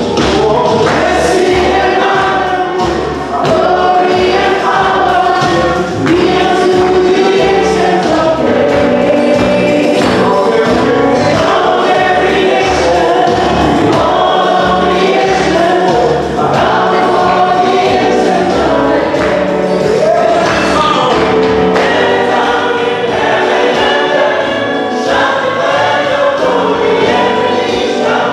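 Gospel choir singing with a rhythmic band accompaniment.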